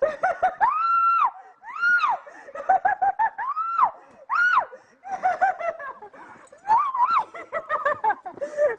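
A woman laughing hysterically, in quick runs of high 'ha-ha' notes broken by several long, high-pitched squeals that rise and fall.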